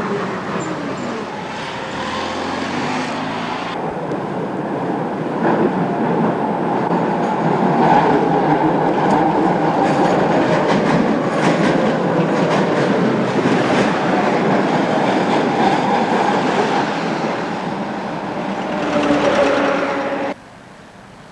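A Czechoslovak-built Tatra tram running along the line, heard from inside the car: steady rumble of wheels on rail, a motor whine that slides up and down in pitch as it speeds up and slows, and clicks as the wheels pass over rail joints. The sound cuts off abruptly near the end.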